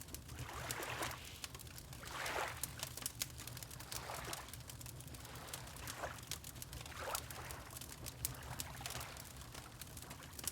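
Water lapping in soft swells every second or two, with a fireplace crackling and popping throughout over a low steady rumble.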